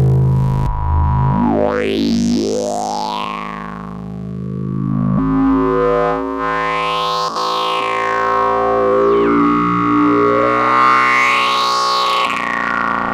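Eurorack modular synthesizer drone from the Intellijel Rubicon 2 oscillator through the Morgasmatron filter: sustained buzzy held notes with resonant filter sweeps rising and falling every few seconds. The held pitches change twice.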